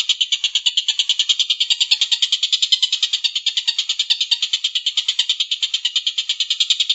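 A bird's high, rapid chattering trill of about ten notes a second, running on without a break.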